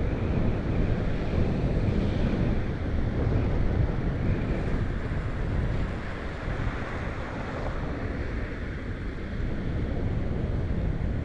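Steady wind rushing over the microphone of a road cyclist riding at speed, strongest in the low range and easing off a little partway through.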